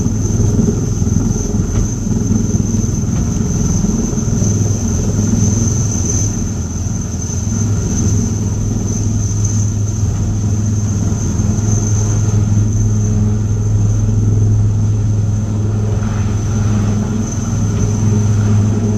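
Helicopter running steadily with a deep hum and a thin, steady high-pitched whine.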